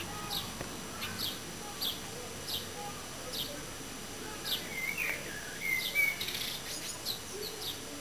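A bird calling over and over: short, high, falling chirps repeated at a steady rhythm, a little more than one a second, with a few different short calls a little past the middle.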